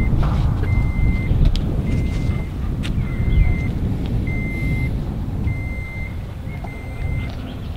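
Truck's reversing alarm beeping, one high tone roughly once a second, over the low rumble of the truck's engine, which slowly fades.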